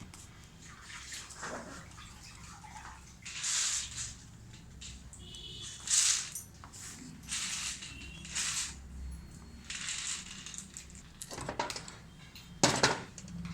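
Water splashing and sloshing in short bursts, about seven times, over a faint low hum.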